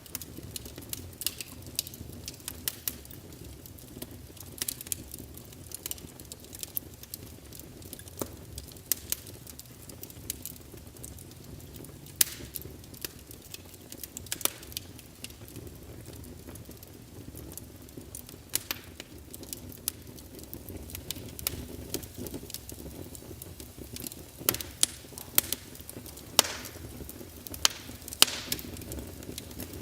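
Wood fire burning in a fireplace: a steady low rumble of flames with irregular sharp crackles and pops from the burning logs, the pops coming thicker about three-quarters of the way through.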